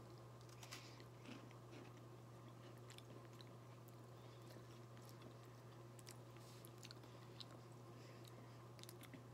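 Faint chewing of a crisp melon-flavoured biscuit: scattered small crunches and mouth clicks over a low steady hum.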